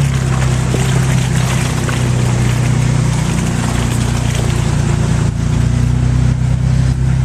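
Off-road 4x4 engine running steadily at low revs during a creek crossing, over a steady wash of splashing water.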